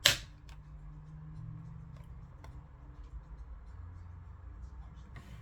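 A sharp click right at the start, then a few faint ticks, over a steady low hum: small tools and parts being handled while a compact speaker's casing is opened.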